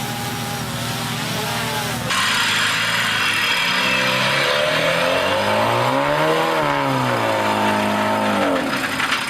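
Off-road 4x4 competition vehicle's engine revving. It starts abruptly about two seconds in, climbs in pitch for about two seconds, then falls back and dies away near the end.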